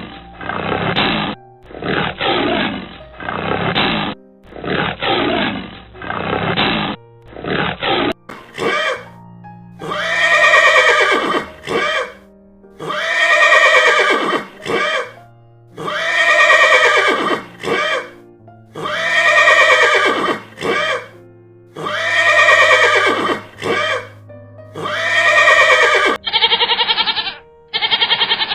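A series of animal calls over background music. First come several seconds of rapid, rough calls. Then six long calls follow about every three seconds, each about two seconds long and sliding downward in pitch.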